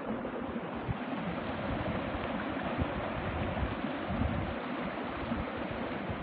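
Water flowing with a steady rushing noise.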